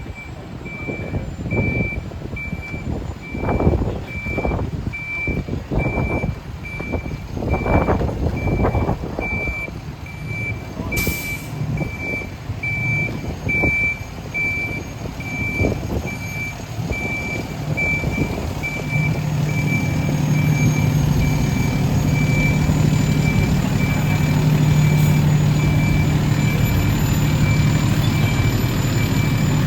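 Fire truck backing up, its reversing alarm beeping steadily over the diesel engine. A brief hiss comes about a third of the way through, and the engine grows louder over the last third.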